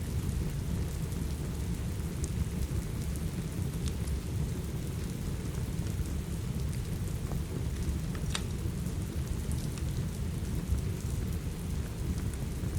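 Steady rain with a deep, continuous rumble underneath. A few scattered sharp pops of a crackling wood fire sound over it, the clearest about eight seconds in.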